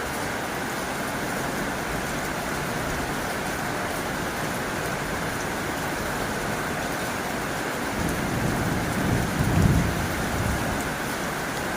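Heavy rain drumming steadily on a tin roof. About two-thirds of the way in, a low rumble of thunder swells, peaks and dies away before the end.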